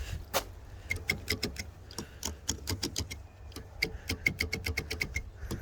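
Rapid, irregular electrical clicking, like a relay chattering, as the wheel lift's pump fails to run on a run-down battery. The clicks come about three to four a second, starting about a second in.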